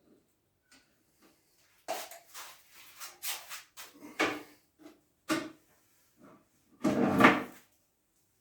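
A run of knocks and clatters of hard objects being handled, about a dozen irregular hits, with a louder, longer clatter about seven seconds in.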